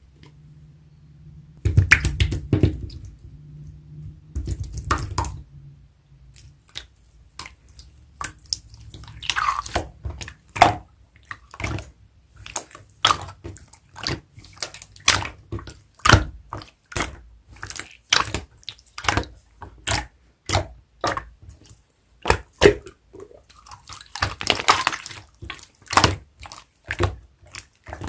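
Clear slime being squeezed and pressed by hand, giving a run of sharp, wet clicks and pops, about one or two a second, with heavier squishing and handling sounds in the first few seconds.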